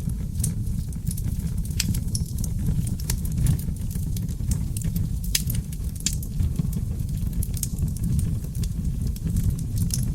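Wood fire of seasoned oak logs burning in a fireplace: a steady low rumble of flames with frequent, irregular sharp crackles and pops.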